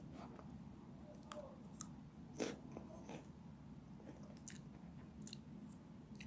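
Meringue cookies being chewed close to the microphone: scattered soft crunches and small clicks, one louder bite about two and a half seconds in. The cookies have gone a little soft from melting, so they barely sound crisp.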